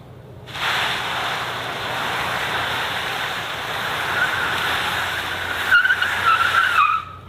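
Car tyres screeching in a long skid or wheelspin. The sound starts suddenly, a wavering squeal rises out of it in the last couple of seconds, and it cuts off abruptly.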